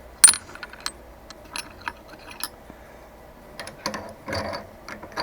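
Small metallic clicks and ticks of machine parts and tools being handled: one sharp click just after the start, then scattered, irregular ticks and light knocks.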